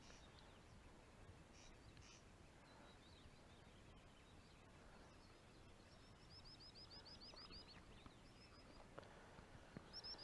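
Quiet riverside ambience with faint songbird calls. About six seconds in, a bird gives a quick run of about a dozen high, evenly spaced notes, and a few more follow near the end.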